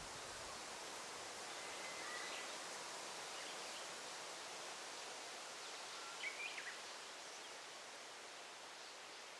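Forest ambience: a steady rustle of leaves in the wind, with faint bird calls. A thin whistled note comes about two seconds in, and a short burst of chirps a little after the middle.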